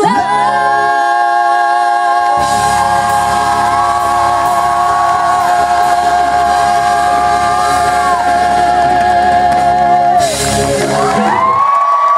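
Live music: several singers and the band hold one long final chord with vibrato over a steady cymbal-like wash for about eleven seconds, and it cuts off near the end.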